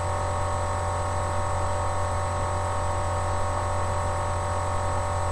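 Steady electrical hum with a constant hiss under it, unchanging throughout: a low mains-type hum with several higher steady tones over it.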